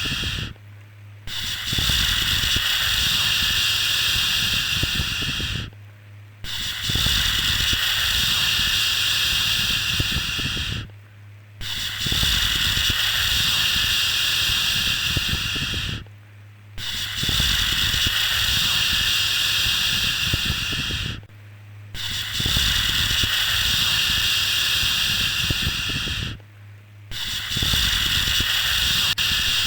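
A long 'shhh' shushing sound for soothing a baby to sleep, each hush lasting about four and a half seconds with a short pause between, repeating evenly about every five seconds.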